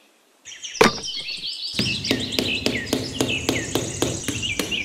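Birds chirping and twittering, starting about half a second in after a moment of quiet. From about two seconds in, a steady rhythmic ticking, three or four a second, and a low hum join the chirps.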